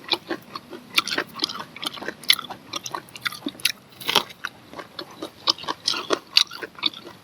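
A person biting and chewing grilled corn on the cob: a rapid, irregular run of short mouth clicks and bites, several a second.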